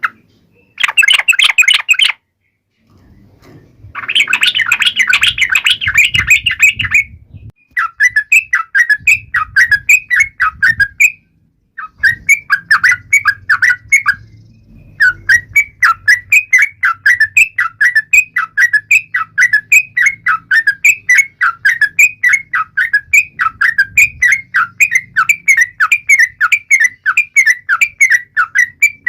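Yellow-vented bulbul (trucukan) singing in quick, chattering phrases of short chirping notes. The phrases come in bursts with short pauses in the first half, then run on steadily for the second half.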